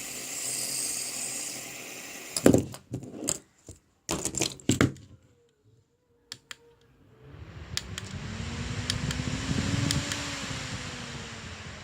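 Plastic clicks and handling knocks, then a small spinning toy whirring. Its hum rises in pitch, then slowly falls as it runs down.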